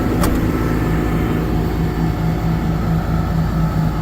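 Cummins 6.7L diesel engine of a Ford F750 bucket truck running steadily with the PTO engaged, a low drone with a pulsing hum. A sharp click sounds about a quarter second in.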